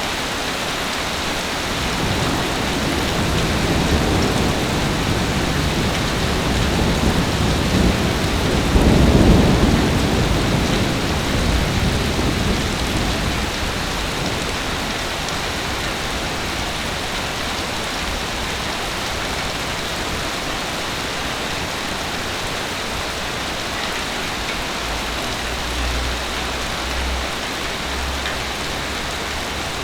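Steady heavy rainfall. A long roll of thunder swells a couple of seconds in, is loudest about nine seconds in and dies away a few seconds later. A fainter low rumble follows near the end.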